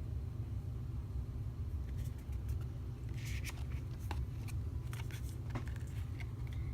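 Oracle cards being handled: light clicks and taps begin about two seconds in, with a brief sliding swish of card against card soon after, over a steady low background hum.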